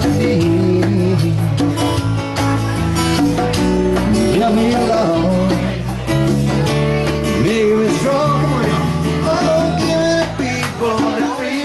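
Live band playing a rock song, with electric guitar, bass and a singing voice.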